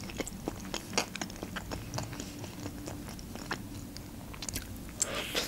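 A person chewing a mouthful of pizza close to the microphone: many small wet mouth clicks and smacks, with a louder crunchy bite near the end.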